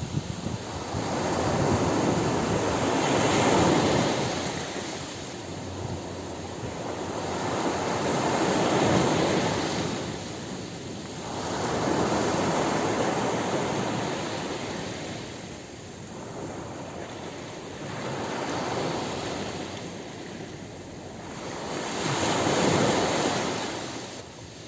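Ocean surf on a beach: waves breaking and washing up the sand, the rush swelling and fading about five times.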